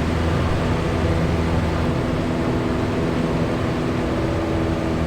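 Cessna 172's four-cylinder piston engine and propeller droning steadily in cruise, heard inside the cabin.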